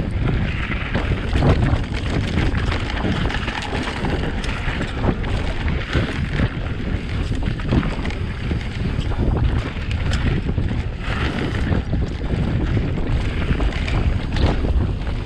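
Wind rumbling over the microphone on a moving e-bike, a steady low rush, with scattered short knocks and rattles from the bike going over rough trail.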